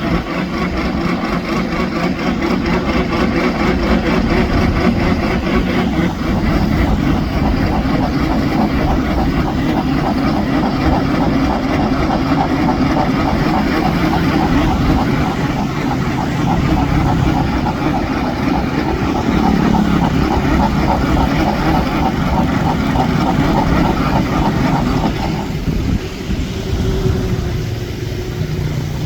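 Engine of a homemade mud suction boat running steadily under load. The sound thins out and drops a little about 25 seconds in.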